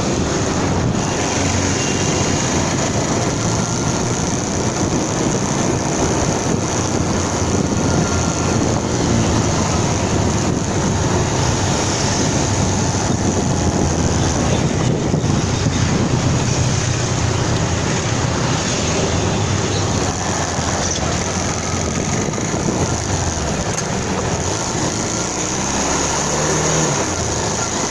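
Motorcycle riding on the road: steady engine and road noise with traffic around it.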